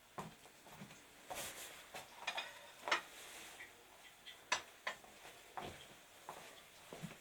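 Irregular light clicks and knocks, with a couple of brief scrapes, as of small objects being handled and set down; the sharpest clicks come about three and four and a half seconds in.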